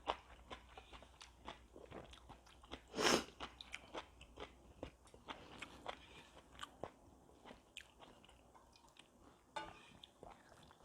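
Close-miked eating sounds of a person chewing ramen: many small wet mouth clicks in an irregular stream, with one louder noisy burst about three seconds in.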